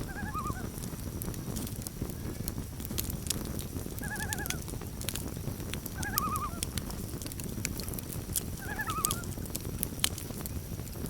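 Loon tremolo calls: four short quavering phrases a few seconds apart, over a campfire crackling with frequent sharp pops.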